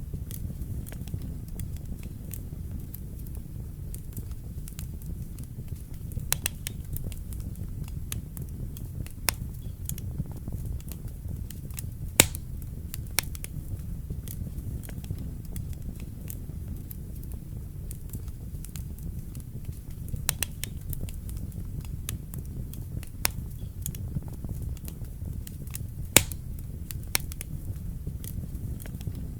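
Fire burning in a fireplace: a steady low rumble with irregular sharp crackles and pops, two of them louder, one near the middle and one near the end.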